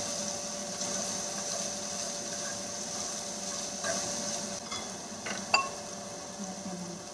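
Ground pork, cabbage and sausage sizzling in a stainless steel frying pan while being stirred with wooden chopsticks. A few clicks of the chopsticks against the pan come around the middle.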